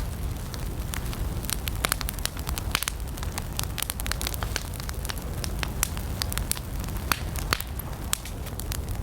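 Wood campfire crackling and popping: irregular sharp snaps over a steady low rumble of the flames.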